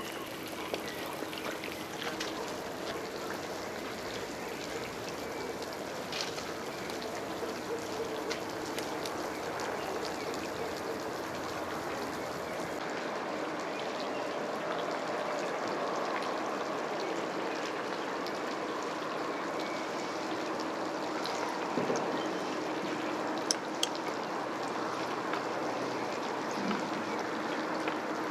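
Steady hiss of running or falling water, with a few faint clicks on top.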